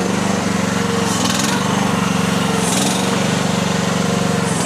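Mini skid steer's small engine running steadily under load, holding a heavy pallet at the limit of what the machine can lift. Short hissing bursts come twice, about a second in and just before three seconds.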